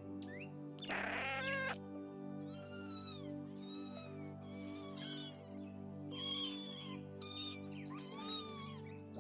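Cat meowing. A rougher cry comes about a second in, then a run of about seven short, high mews, each rising and falling in pitch, over soft ambient background music.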